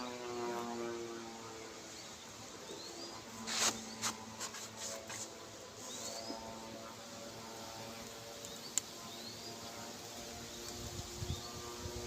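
Honeybees buzzing around an open hive: a steady, droning hum, with a few sharp clicks about three and a half to five seconds in.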